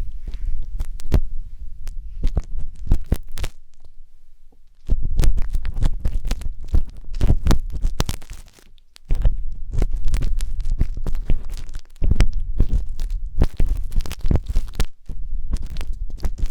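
Close scraping and rubbing of a wooden skewer inside a 3Dio binaural microphone's ear: a heavy low rumble with crackly scratches, in several stretches broken by short pauses about 4 and 8 seconds in.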